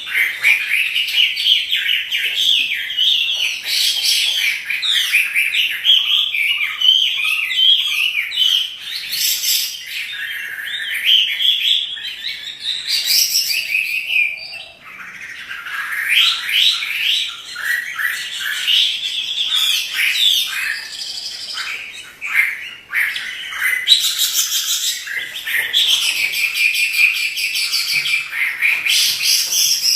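Chinese hwamei (Garrulax canorus) in full song: a loud, varied stream of fast repeated notes and sliding whistles, broken by short pauses twice.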